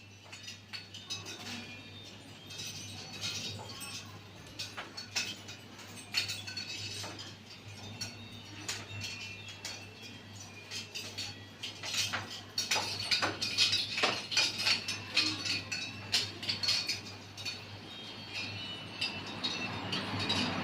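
Irregular clinks and taps with brief ringing tones, things jostled by storm wind, over a steady low hum; a rushing noise of wind and rain builds near the end.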